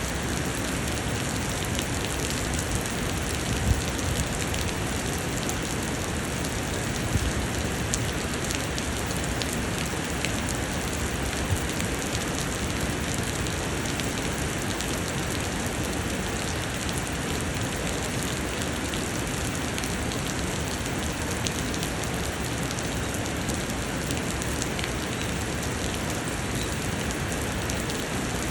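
Steady summer rain pouring down, with a few louder single drops striking close by.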